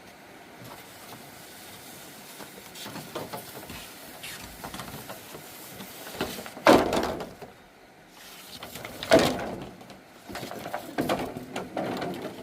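Several knocks and scrapes. The loudest comes about halfway through, another about three-quarters through, and a cluster of smaller ones near the end.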